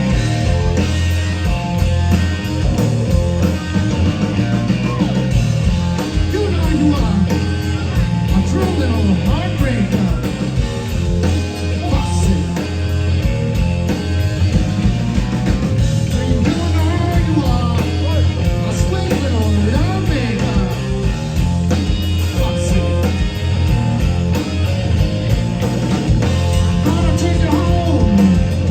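Rock band playing with electric guitar, bass and drums: loud, steady music, the guitar bending notes over a driving rhythm.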